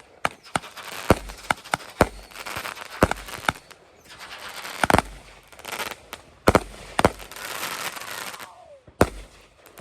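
Consumer fireworks going off: about ten sharp, irregular bangs, with bursts of crackling between them.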